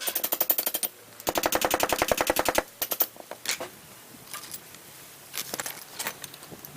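Power impact tool hammering in two rapid bursts of about a second each, some fifteen strikes a second, followed by scattered metallic clicks and clinks of parts being handled.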